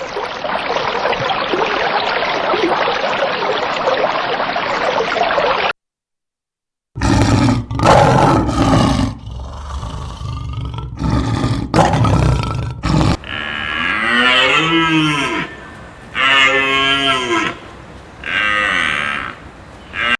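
A steady rushing noise for about six seconds, then, after a short gap, cattle bellowing and lowing: loud rough calls first, then a series of long moos, each about a second, rising and falling in pitch.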